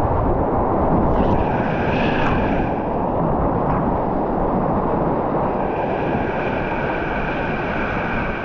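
Whitewater river rapids rushing, a loud, steady roar of churning water.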